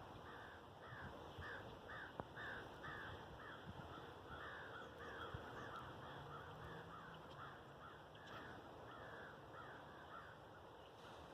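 A bird calling over and over, a fast series of short falling notes, about two to three a second, that stops near the end. Faint, over a steady outdoor hiss.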